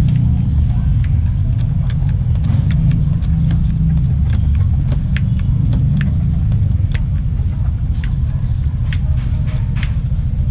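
Steady low rumble with many scattered sharp clicks and ticks, irregularly spaced.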